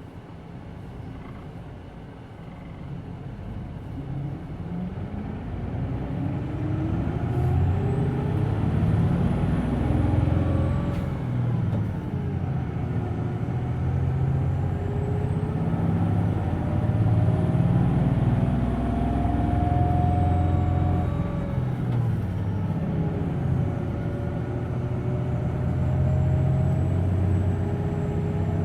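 Hino Blue Ribbon City Hybrid bus running, heard from inside the cabin. The engine note climbs in pitch and grows louder over the first several seconds, then stays loud with drifting engine tones and faint high whines that rise and fall.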